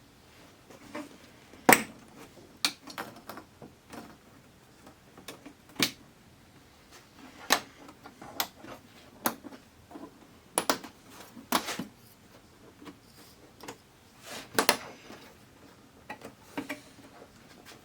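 Irregular clicks, taps and knocks of plastic and metal TV parts being handled during reassembly of an LCD TV, with the sharpest knock about two seconds in.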